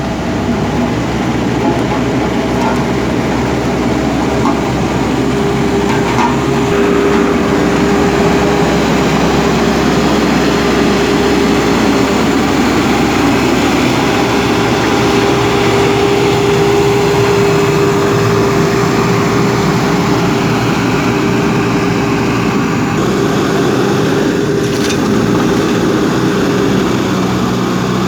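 JCB 3DX backhoe loader's diesel engine running steadily while working.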